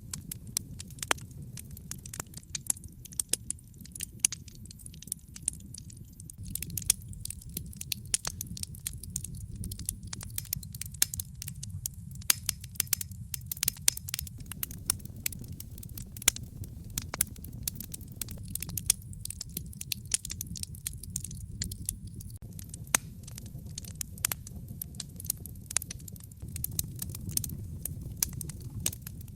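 Wood fire crackling: many sharp pops and snaps, irregular and close together, over a steady low rumble of the burning fire.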